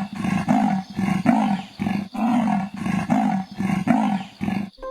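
Leopard calling: a rapid series of rough grunting calls, about two to three a second, in the rhythm of its sawing call, stopping just before the end.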